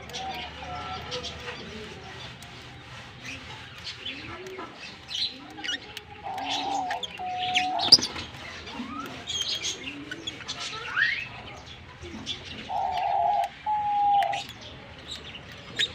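Fischer's lovebirds chirping: a busy run of short, sharp chirps and twitters, with two louder, longer held calls about six and thirteen seconds in.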